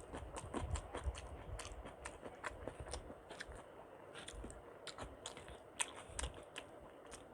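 Close-miked eating: chewing with frequent quick wet mouth clicks and smacks, several a second, with a few louder ones about a second in and around five to six seconds in.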